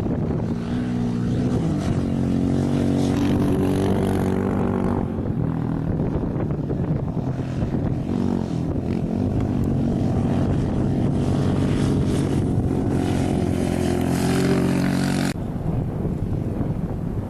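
Engine of an off-road rally vehicle running hard, its pitch mostly steady with dips and rises along the way, then cutting off suddenly about two seconds before the end.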